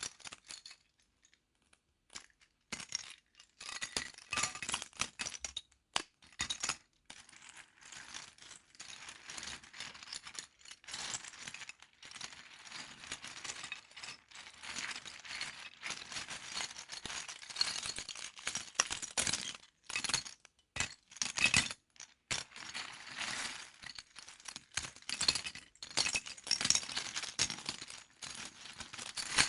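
Small plastic LEGO pieces clattering, clinking and clicking as they are handled and sorted, in dense irregular runs of rattling with a short pause about a second in.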